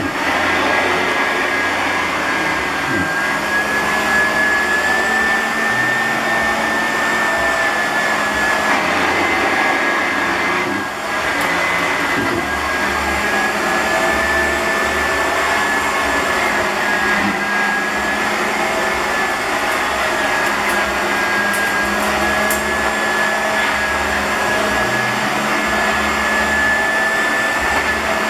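Clarke Alto upright vacuum cleaner running on carpet, pushed back and forth in vacuuming passes. Its motor makes a steady rushing noise with a high whine that wavers slightly in pitch, and the sound briefly dips about eleven seconds in.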